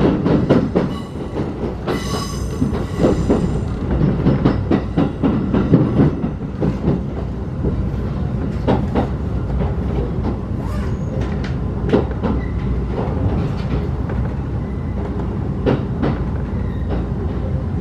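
Ride in a passenger coach running on rails: a steady low rumble with wheels clicking over rail joints. A brief high-pitched wheel squeal comes about two seconds in, and the clatter is busier in the first few seconds before settling into a steadier run.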